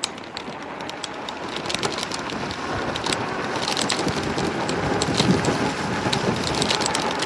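E-bike riding along and picking up speed: rolling tyre noise with many small clicks and rattles, and wind on the microphone, growing gradually louder.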